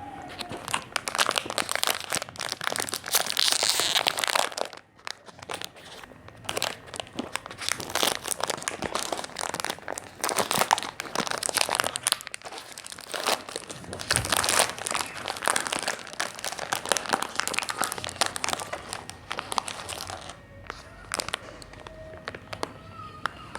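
Close-miked, dense crinkling and crunching from chocolate biscuits and their wrappers being handled and eaten. There is a short pause about five seconds in, and the sound thins out near the end.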